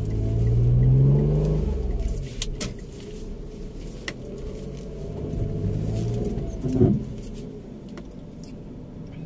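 Mitsubishi car engine accelerating, heard from inside the cabin: the revs climb for about a second and a half, then ease off, and build again about five seconds in. A short, loud knock comes near the seven-second mark, with a few faint clicks along the way.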